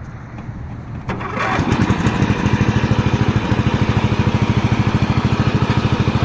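Riding lawn mower engine being started: the starter is jumped at the solenoid with a screwdriver, giving a sharp click about a second in. The engine catches and revs up half a second later, then runs steadily with an even pulsing beat.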